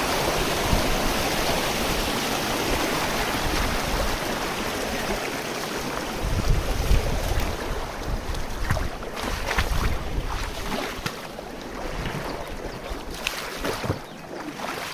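Steady rush of flowing water, like a stream or small waterfall, thinning after about six seconds, with wind gusting on the microphone.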